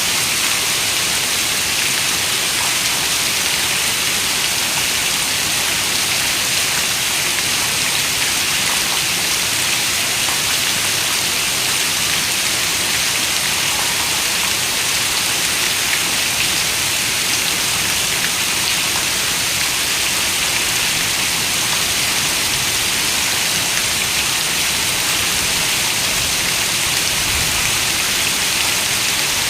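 Rain falling steadily on a window, a bright, even hiss that holds level without breaks.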